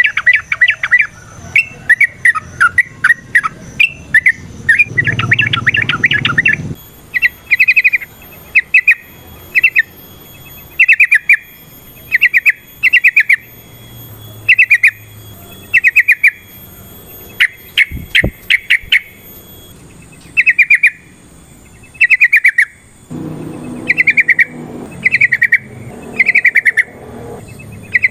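Yellow-vented bulbul (trucukan) singing: short bubbling phrases of quick notes repeated about once a second, after denser, overlapping chatter in the first several seconds.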